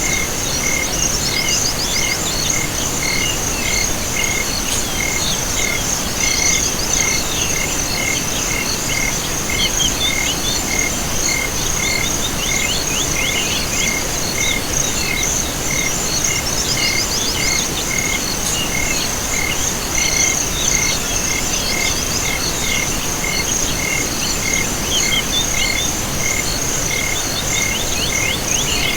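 Night chorus of insects and frogs: a continuous high insect trill, a chirp repeated about twice a second, and bursts of quick rattling frog calls, over a steady low hiss.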